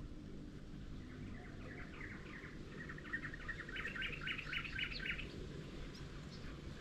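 A small bird chirping a quick series of short, high notes, starting about a second and a half in, growing denser and stronger, and stopping about five seconds in, over a steady low background hum.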